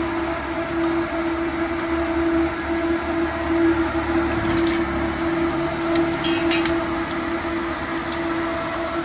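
A machine running steadily with a constant whine over a rough low rumble, with a few faint clicks.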